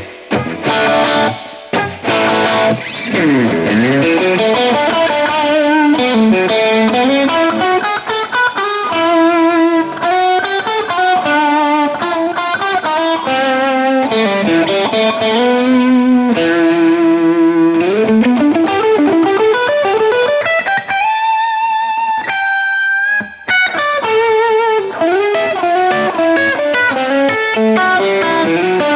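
Electric guitar played with extra distortion and spring reverb through a 15-watt Fender Blues Junior tube amp: a single-note lead line full of string bends, with one long held note about three-quarters of the way through.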